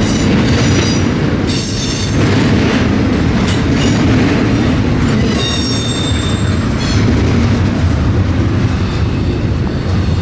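Freight train cars rolling past with a steady rumble, the wheels squealing high-pitched on the rails at the start and again about halfway through.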